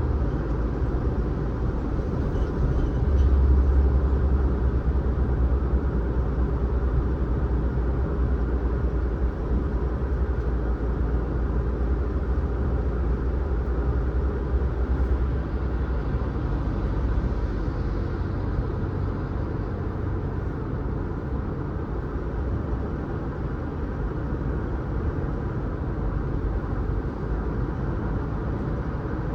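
Steady low rumble of a car being driven, engine and tyre road noise together. The deepest rumble is heavier for the first half and eases a little after about 16 seconds.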